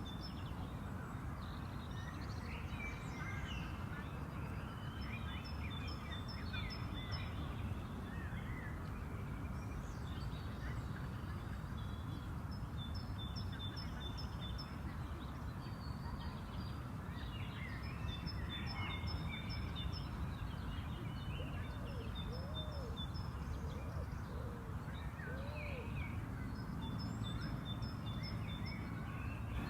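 Spring park ambience: several songbirds singing and calling, with repeated short trills, over a steady low background rumble. A few lower, rounded calls come in about two thirds of the way through.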